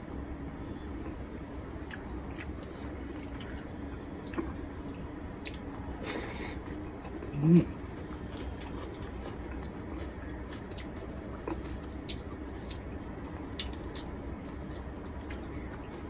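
Close-up eating sounds of rice and fish curry eaten by hand: chewing, with small wet clicks from the mouth and fingers. A short, louder throat sound comes about halfway through.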